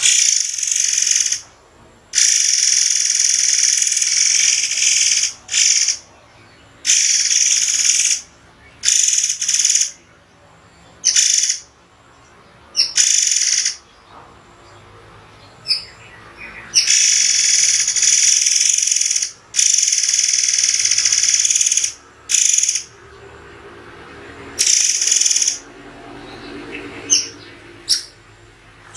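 A murai air songbird singing loud, high, harsh bursts of song, each lasting from a fraction of a second to about three seconds, broken by short pauses, its sharp 'tembakan' delivery. Near the end only a few short chirps remain.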